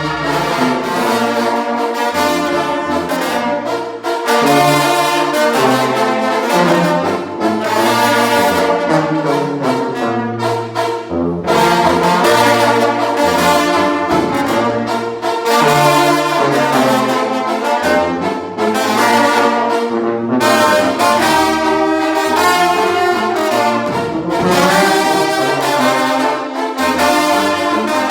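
A brass band playing loudly: trumpets and trombones in sustained chords over a low bass line, with the notes changing every second or so.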